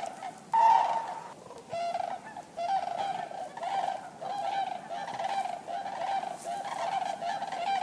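A flock of common cranes calling, many short calls repeating and overlapping, with one louder, higher call about half a second in.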